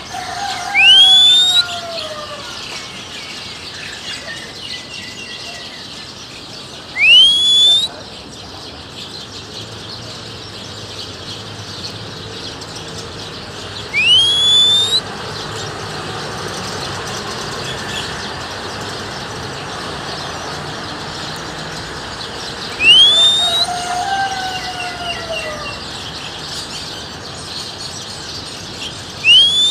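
A person whistling five loud rising whistles, each about a second long and every six to nine seconds, to call a wild oriental magpie-robin. A steady background of bird chirping runs underneath.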